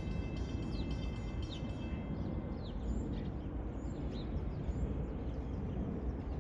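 Birds chirping: several short, high, downward-sweeping calls scattered over a steady low background rumble, with a faint high steady tone fading out in the first couple of seconds.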